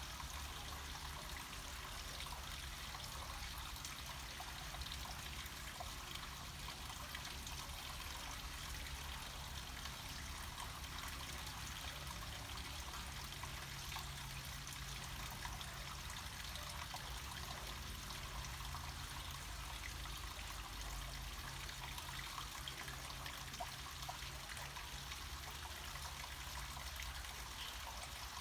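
Water flowing down a small mountain waterfall, a steady, even trickling rush that does not change.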